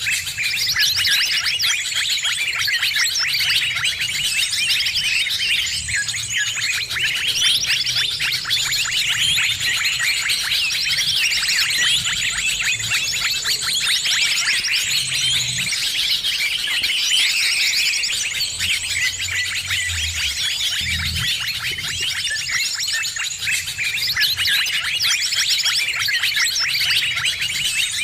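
A dense, agitated chorus of many small birds chirping and chattering rapidly and without pause, with a thin high note repeating over it: a 'noisy birds' lure recording used to draw birds in.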